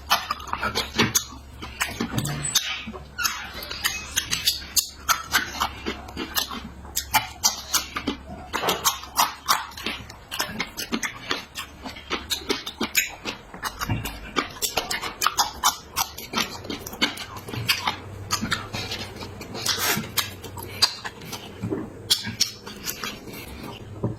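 Close-miked chewing and mouth smacking of a person eating, many short irregular smacks and clicks.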